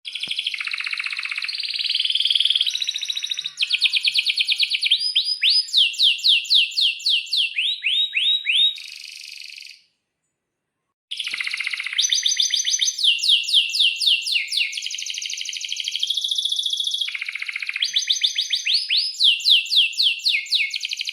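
Domestic canary in full song: long rolling phrases of fast trills and rapidly repeated downward-sweeping notes, broken by a pause of about a second midway.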